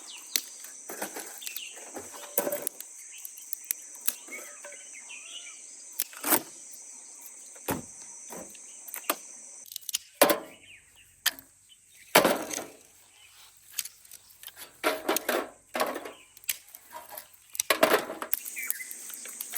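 Dry firewood sticks being handled and broken, giving irregular sharp cracks and knocks, over a steady high insect drone.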